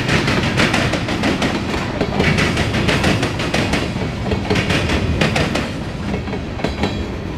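Freight cars of a mixed freight train rolling past close by, a tank car and then open gondolas. The steel wheels click rapidly over the rail joints over a steady rumble.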